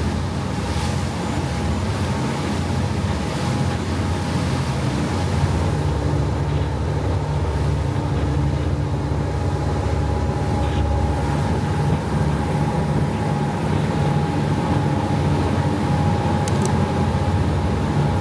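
Boat engine running steadily under way, with water rushing past the hull and wind on the microphone.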